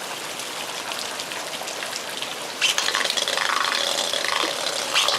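Steady heavy rain falling. About two and a half seconds in, a louder, busier sound full of quick ticks and clicks joins it.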